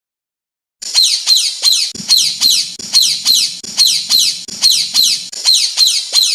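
Recorded songbird call: a fast series of high, downward-sweeping whistled notes, about three a second, starting about a second in and cutting off abruptly at the end as an edited masteran track.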